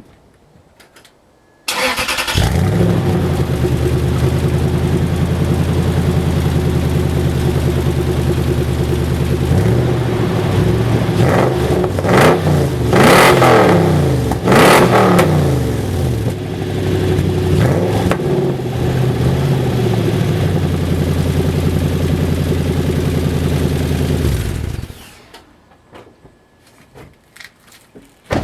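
A 2007 Toyota Tundra's 4.7-litre V8 is started about two seconds in and idles steadily through an exhaust the owner takes for true dual Cherry Bomb glasspack mufflers. It is revved a few times in the middle, once more a little later, and then shut off near the end.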